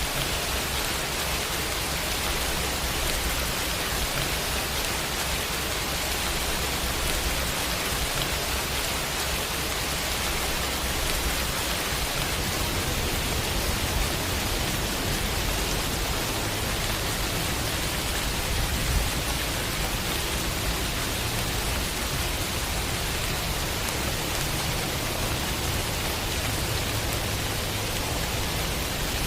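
Heavy rain falling steadily, an even hiss, with a low rumble underneath.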